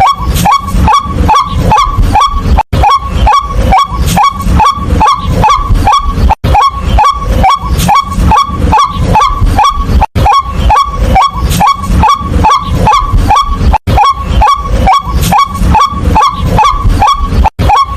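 White-breasted waterhen calling: a loud, unbroken series of short repeated 'kwak' notes, about three a second, with a brief break roughly every four seconds.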